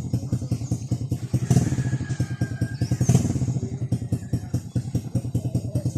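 Small motorcycle engine running, a fast even stream of exhaust pulses with a steady low note.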